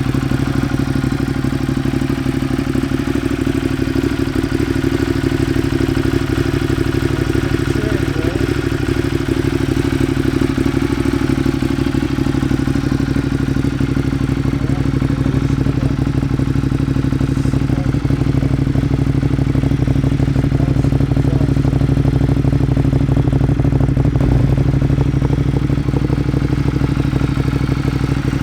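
Ducati Monster 1200R's L-twin engine idling steadily through aftermarket Termignoni carbon-fibre mufflers.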